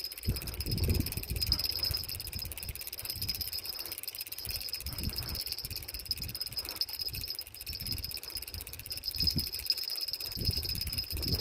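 Steady high chirring of a night insect chorus, with scattered low thumps and knocks beneath it.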